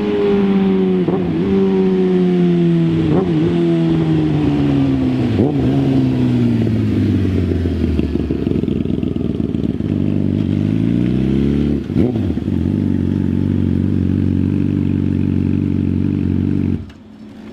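Yamaha R6 inline-four engine through a Toce Performance single-tip exhaust. Its engine speed falls for about eight seconds, broken by three short blips, then rises again and holds steady before cutting off abruptly near the end.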